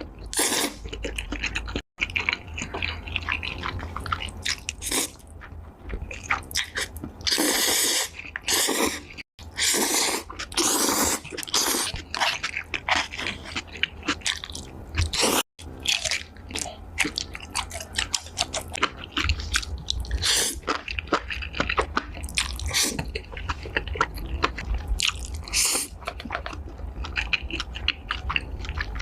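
Close-miked mukbang eating: wet chewing and biting of food, with crunchy bites among the smacking sounds. The sound cuts out for an instant three times.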